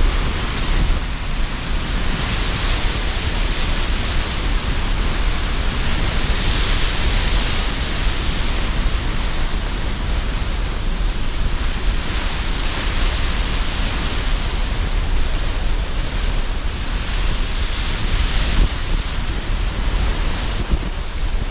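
Sea surf in strong wind: waves breaking and washing in every four to six seconds over a steady low rumble of wind.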